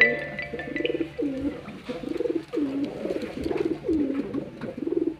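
Domestic pigeon cooing, a run of about eight low coos one after another. A brief high ringing tone fades out in the first second.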